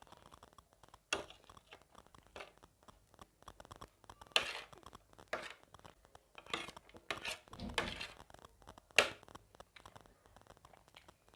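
Close-up mukbang eating sounds: spicy gilo chatpate (a wet puffed-rice snack) being chewed, with several short sharp crunches and clicks spread through.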